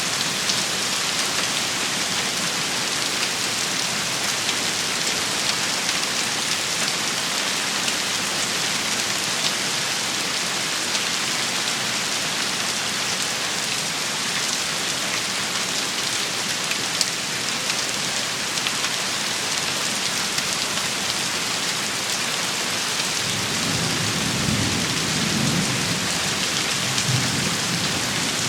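Heavy rain shower pouring steadily, with fine pattering of drops. A low rumble of thunder rises about three-quarters of the way through and carries on to the end.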